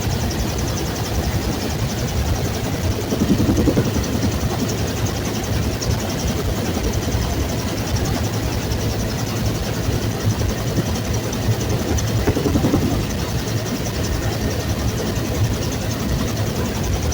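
Bell UH-1 Huey helicopter's rotor and turbine engine running steadily, a loud dense rumble with two brief swells, one about 3 seconds in and one near 13 seconds.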